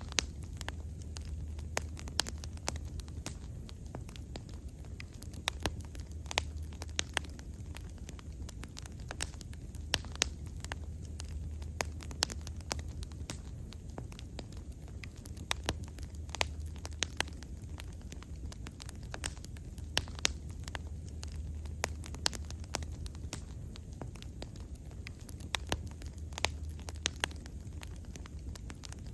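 Wood fire burning, with frequent sharp pops and crackles scattered irregularly over a steady low rumble of the flames.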